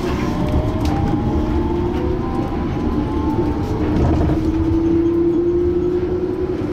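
Yurikamome rubber-tyred automated guideway train running, heard from inside the car: a steady rumble, with a motor whine rising slowly in pitch.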